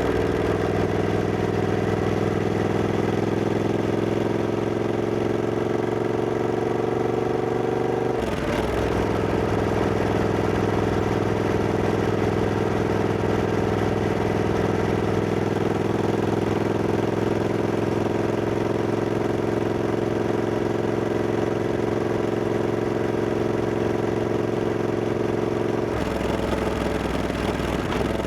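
Triumph Scrambler 1200X's 1200 cc parallel-twin engine pulling under way, its note climbing slowly. About eight seconds in the revs drop sharply at a gear change and then climb again, and the note changes once more near the end.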